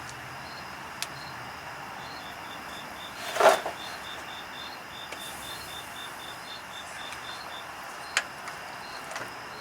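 Insect chirping in quick, evenly spaced high-pitched pulses, about four or five a second, over a steady background hiss. A single loud, short clank about three and a half seconds in, with a couple of faint sharp ticks, likely a wrench or bolt against the steel of the truck's underside.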